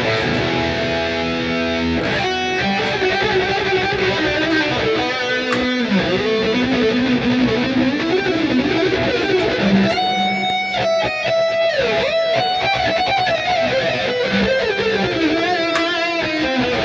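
Harley Benton Fusion 3 electric guitar playing a lead melody with string bends and vibrato over a fuller chordal backing, with brighter, higher notes from about ten seconds in.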